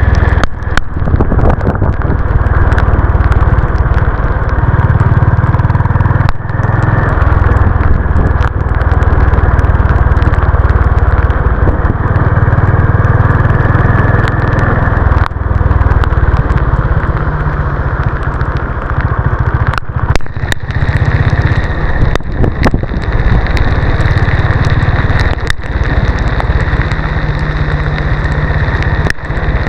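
Honda CB350 RS's air-cooled single-cylinder engine running as the motorcycle is ridden, its low exhaust note shifting in pitch now and then. Wind rush and scattered sharp knocks run through it.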